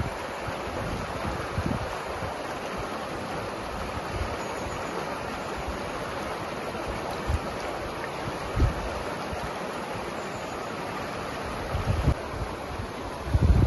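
Steady rush of flowing river water, with a few short low thumps, the loudest near the end.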